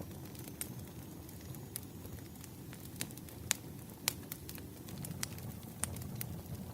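Wood fire crackling: irregular sharp pops and snaps, two of them louder near the middle, over a low steady rumbling background.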